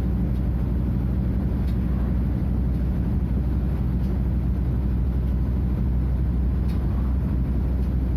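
Scania F250HB bus's DC09 five-cylinder diesel engine running steadily with a deep, even drone.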